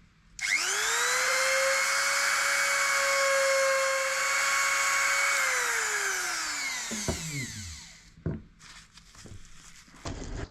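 Dremel rotary tool spinning up to speed with a high whine, running steadily for about five seconds, then switched off and winding down, used to polish a scratched camera lens with diamond paste. Faint light ticks follow near the end.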